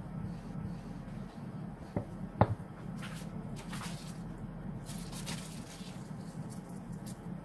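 Hands working fondant and tools on a work surface: two short knocks about two seconds in, then brief rustling a second or so later and again near the middle, over a steady low hum.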